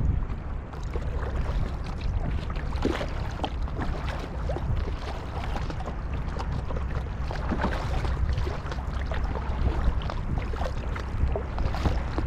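Sea kayak being paddled on open water: irregular splashes and drips from the paddle blades and water slapping the hull, over a steady low rumble of wind on the microphone.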